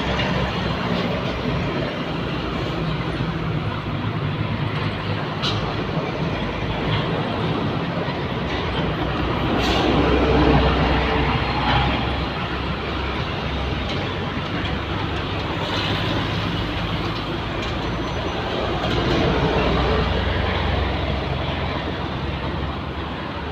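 Heavy trucks driving past on a road: a continuous low engine hum and tyre noise that swells twice as vehicles pass close by.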